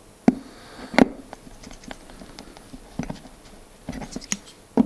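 Lead knife working the lead came of a stained glass panel on a bench: a few sharp knocks and taps with lighter clicks between them as the lead strip is cut and pulled away from the glass.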